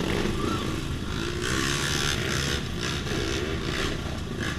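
Dirt bike engine running under throttle, its note rising and falling.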